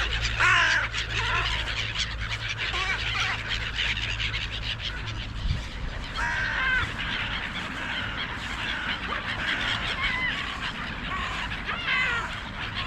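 A flock of gulls squawking over one another in a dense, continuous chorus as they mob thrown-out food, with a low steady rumble underneath that fades about halfway through.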